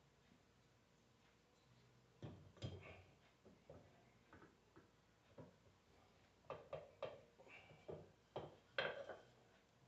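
Scattered light knocks and clicks of alternator parts and tools being handled on a workbench. They start about two seconds in, and the loudest come near the end.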